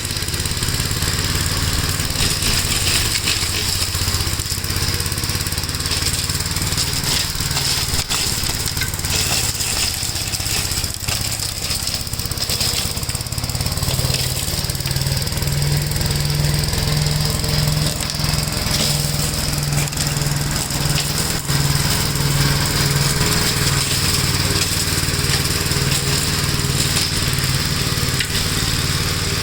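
1969 Gravely L walk-behind tractor's single-cylinder engine running steadily with its mower attachment, mulching leaves and nuts. About halfway through a regular throbbing pulse comes into the engine note.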